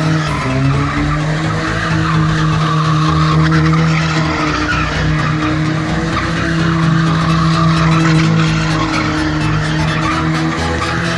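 Car engine held at high, steady revs with tyres skidding, the engine pitch dipping briefly about half a second in and climbing back.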